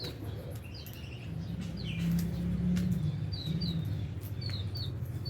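Lovebirds chirping: scattered short, high chirps that drop in pitch, with a few clicks, over a low background rumble.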